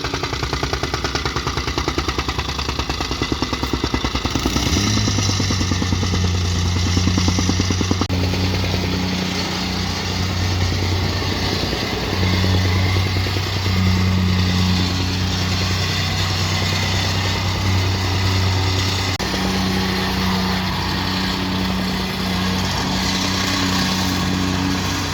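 Excavator's diesel engine running. Its note steps up about four seconds in and then rises and falls several times as it works.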